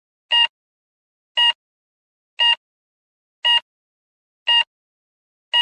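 A short, high electronic beep repeating evenly about once a second, six times, with silence between.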